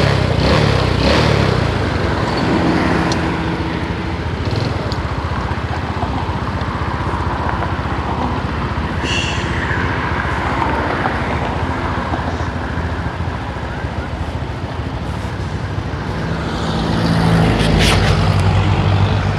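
Motorcycle riding in road traffic: its engine runs under a steady rush of wind and road noise, with other vehicles around it. An engine grows louder near the end.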